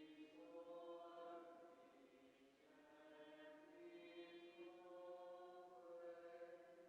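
Faint singing of a slow hymn, in long held notes that move from one pitch to the next in phrases of a second or two.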